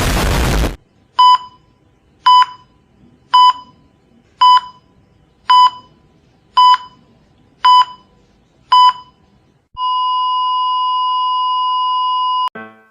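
A short burst of static hiss, then eight electronic beeps about a second apart, then one long unbroken beep of nearly three seconds: a heart-monitor sound effect ending in a flatline.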